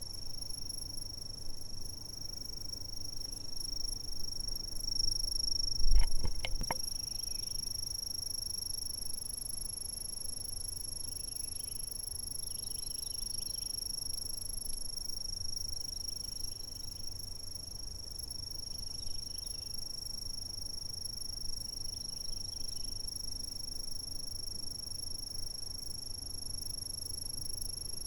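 Insects calling: one unbroken, steady high-pitched trill, with faint scattered chirps from other insects a little lower in pitch. A brief low thump with a few clicks sounds about six seconds in.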